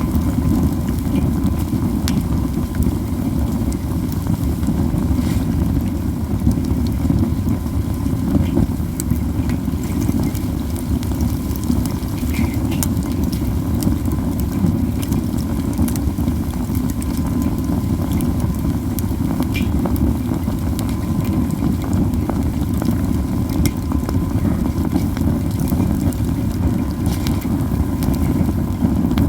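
Pine cones burning in a fire pit: a steady low roar of flames with scattered crackles and pops all through.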